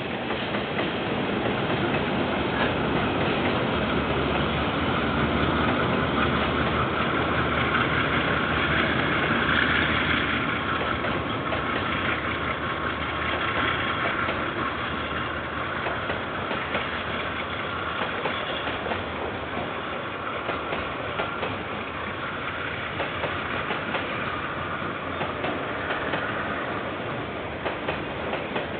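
KiwiRail freight train rolling past, its wagons running over the rails with a steady rumble and a quick run of clicks from the wheels. It is loudest about a third of the way in and eases slightly after that.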